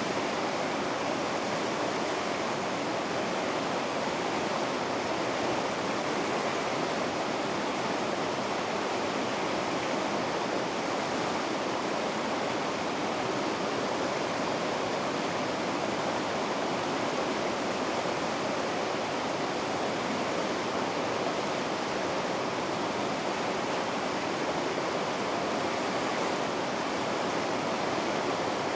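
River rapids rushing steadily: an even, unbroken rush of fast water with no single splashes standing out.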